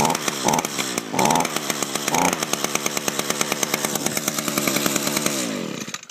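Echo SRM-225 string trimmer's small two-stroke engine running just after a cold start, revving up briefly a few times at first. Near the end the engine note drops and it winds down to a stop.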